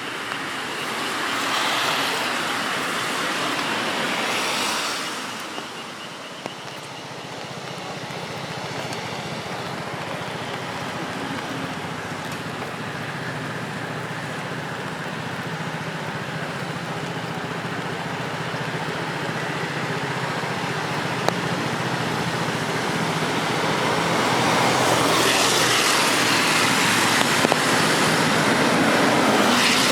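Cars passing on a rain-wet street, their tyres hissing on the wet road: one swells past in the first few seconds and a louder one near the end. Steady rain and a low, even hum lie underneath.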